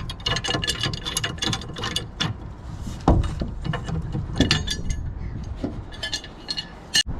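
Metal hand tools clicking and clinking in quick runs, with a heavy knock about three seconds in.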